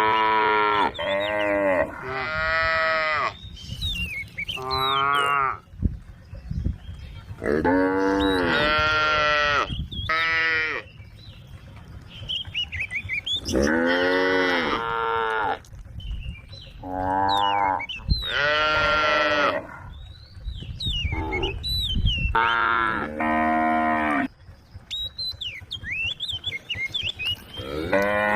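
A herd of cows mooing over and over: about ten long, loud moos, some in quick succession and some overlapping, with pauses between.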